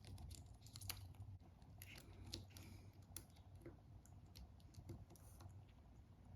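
Faint, irregular small clicks and taps from small phone parts and hand tools being handled, over a low steady hum.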